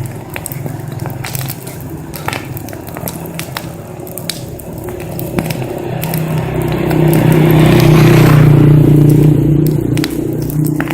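Wood fire crackling, with sharp pops scattered throughout, over a steady low hum that grows louder in the second half.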